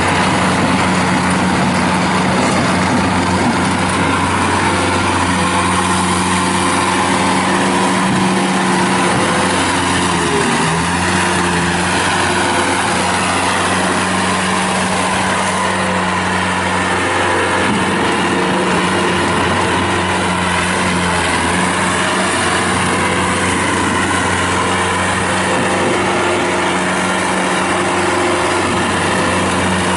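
Bobcat T190 rubber-track skid steer's remanufactured Kubota diesel running steadily at working speed, with a wide hiss over the engine note. The engine speed dips briefly twice, about ten and seventeen seconds in.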